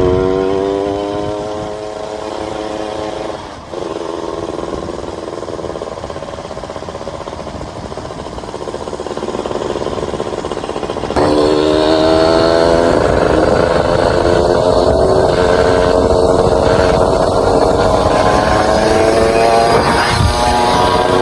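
Kawasaki Ninja RR's two-stroke single-cylinder engine running with its revs rising and falling. It is quieter for the first half, then abruptly louder from about halfway, where the pitch climbs steadily before dropping shortly before the end.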